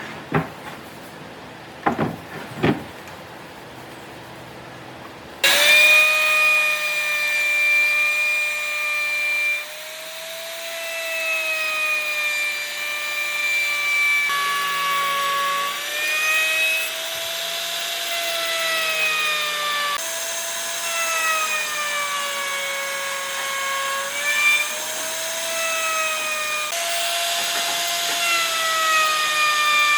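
A few knocks, then about five seconds in a handheld electric power tool starts cutting or smoothing wood. It runs with a high motor whine whose pitch dips and recovers in slow waves as it is pushed into the wood and eased off.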